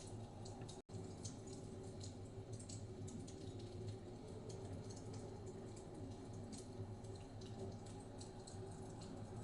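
Wood fire crackling in a fireplace, a scatter of small quick pops and ticks, over a steady low rumble of blizzard wind. The whole sound cuts out for an instant about a second in.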